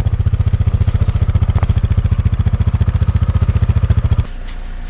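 Engine running with a loud, fast, even low pulsing that cuts off suddenly about four seconds in, leaving a quieter steady engine hum.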